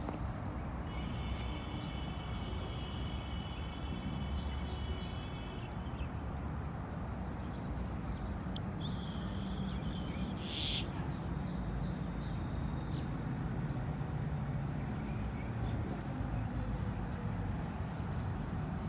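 Birds calling over a steady low outdoor rumble, with a held call a second or so in and one louder, sharper call about ten seconds in.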